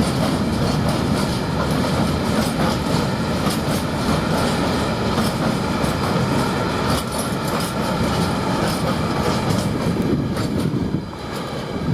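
Freight train hauled by a Class 66 diesel locomotive moving past at low speed, its wagon wheels clattering and clicking steadily over the rail joints. The noise drops away near the end.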